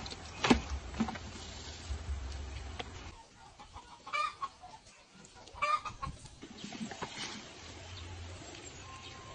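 Two short animal calls, about four and about six seconds in, with a sharp click near the start over a low steady rumble.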